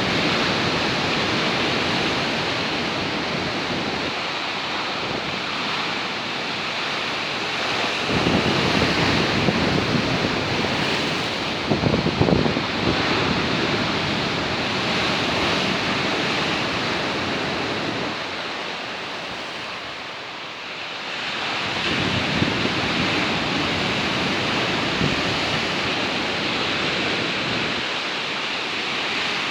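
Stormy Black Sea surf breaking and churning against the shore, with strong wind buffeting the microphone. The noise swells in louder surges around 8 and 12 seconds in and eases briefly about 20 seconds in.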